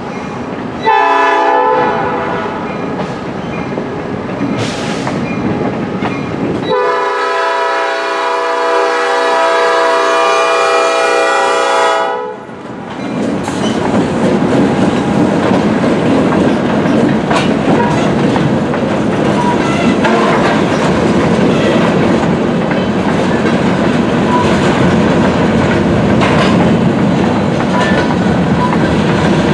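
Freight train horn sounding a short blast, then a long blast of about five seconds. Then a Norfolk Southern freight of covered hoppers rolls steadily over the grade crossing, its wheels clacking over the rail joints.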